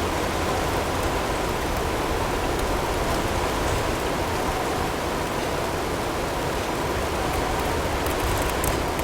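Snowstorm ambience: steady blizzard wind noise, with a faint steady tone blended in underneath.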